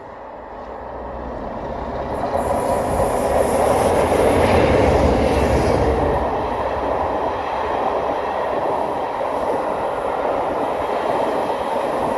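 Passenger train hauled by two Class 47 diesel-electric locomotives going by: the noise builds as it approaches and is loudest a few seconds in. It then settles into a steady rush of wheels on rail with some clickety-clack as the coaches pass.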